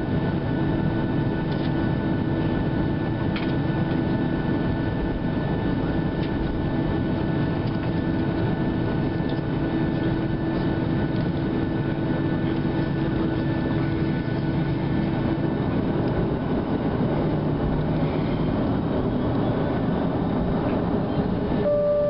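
Cabin noise inside a Boeing 737-700 with its CFM56-7B engines running steadily at low power while the aircraft taxis: an even rumble with faint steady whining tones. Right at the end, a two-note descending cabin chime sounds.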